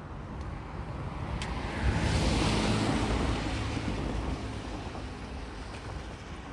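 A car driving past: engine hum and tyre noise swell to a peak about two seconds in and fade away over the next few seconds.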